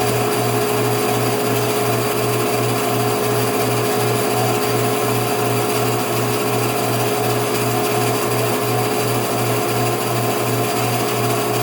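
A small machine running steadily, with a low hum that pulses evenly about three times a second and a steady higher tone above it.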